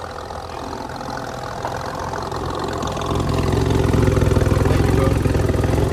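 A vehicle engine idling steadily, growing louder about halfway through.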